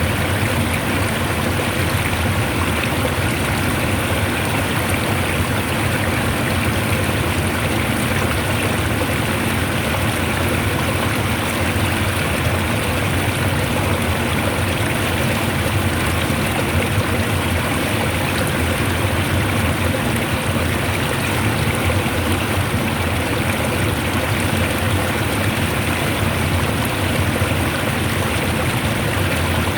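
Fast-flowing water rushing steadily, an even, unbroken wash of noise with no change.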